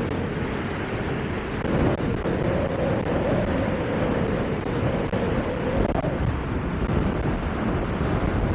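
Steady wind noise buffeting the microphone over a low rumble, with a faint wavering whistle-like tone that rises and falls.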